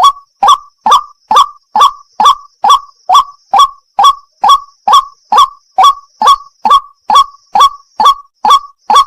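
White-breasted waterhen ('wak-wak') calling over and over, a loud harsh 'kwak' note repeated at a steady pace of about two calls a second.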